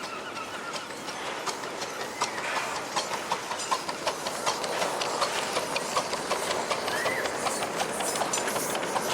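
Miniature railway train running along the track, its wheels clicking over the rail joints in a steady rhythm that starts about a second and a half in.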